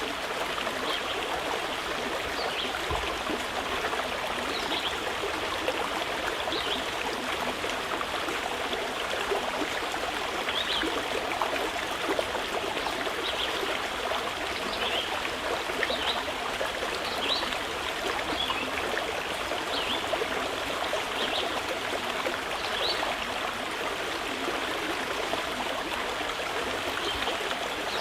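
Mountain river flowing steadily over stones, a constant rushing and trickling of water. Short, faint high chirps of birds come through every second or two.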